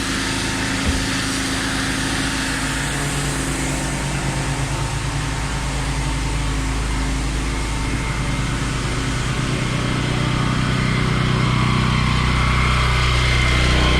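Petrol engine of a pressure washer running steadily, getting a little louder toward the end.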